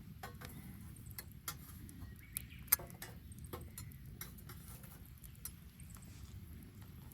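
Wood bonfire crackling: irregular sharp pops and snaps, the loudest a little under three seconds in, over a low steady rumble.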